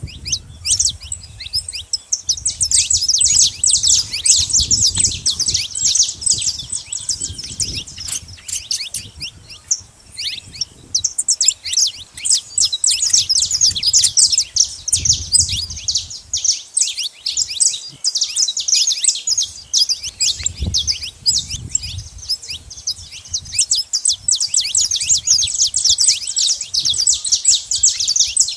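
Saffron finches chirping and singing, a dense stream of rapid high-pitched notes, thinning out briefly twice.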